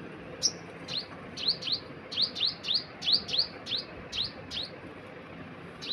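A bird giving a quick series of short, high-pitched chirps, two or three a second, with a pause of about a second near the end.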